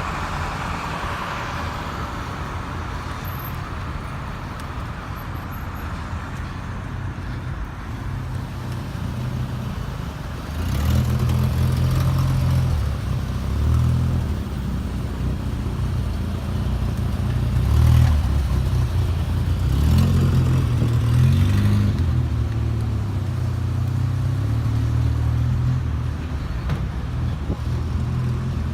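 Road traffic at a city intersection. About ten seconds in, a large vehicle's engine grows louder close by and keeps running, its pitch shifting up and down.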